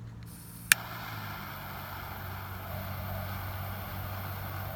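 A torch lighter clicks once, a little under a second in, and its flame then hisses steadily as the cigar is lit, over the car's low steady hum.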